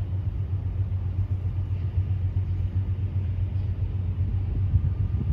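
Steady low engine rumble from distant motor noise, an even drone with no speech over it.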